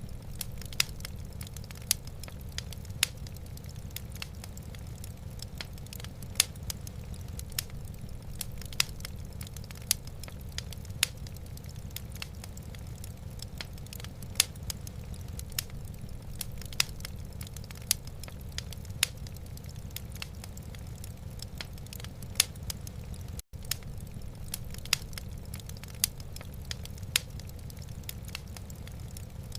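Wood fire crackling in a fireplace: sharp irregular pops, roughly one or two a second, over a steady low rumble. The sound cuts out for an instant about two-thirds of the way through.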